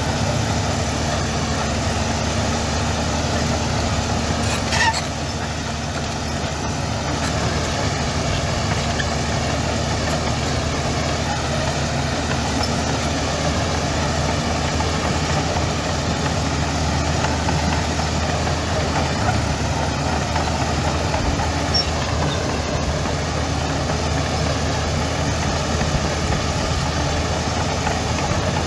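Heavy diesel engine of earthmoving machinery running steadily. There is a brief sharp squeak about five seconds in.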